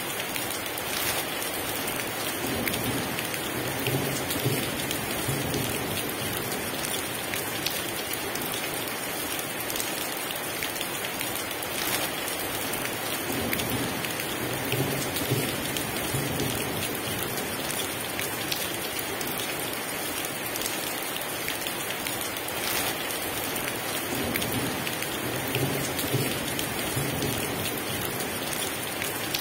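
Heavy rain pouring steadily, with low rumbles of thunder swelling and fading three times.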